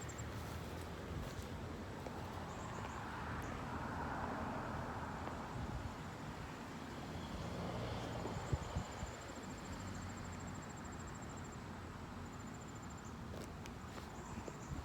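Outdoor ambience: a high-pitched, rapidly pulsing trill repeats several times, the longest lasting about three seconds, over a steady low rumble.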